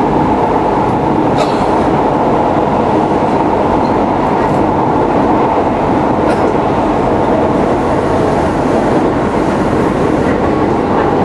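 Keisei 3700 series electric train running at speed, heard from inside the carriage: a steady rumble of wheels on rail with a few faint clicks from the track.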